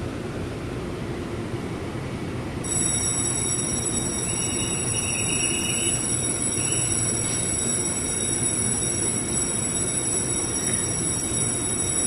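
Taiwan Railway local electric multiple-unit train running with a steady low rumble. About three seconds in, a steady high-pitched whine of several tones starts suddenly and holds, and the sound gets a little louder.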